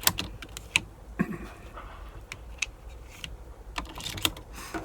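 About ten light, sharp clicks and taps, irregularly spaced, like small parts being handled.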